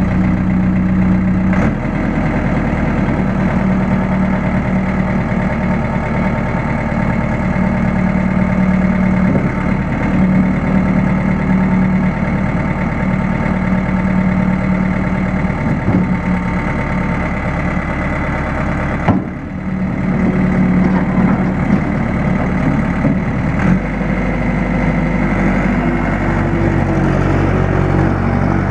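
Case 1840 skid steer's Cummins four-cylinder diesel running steadily just after starting. A single sharp knock comes about two-thirds of the way through, and the engine note changes a few seconds before the end.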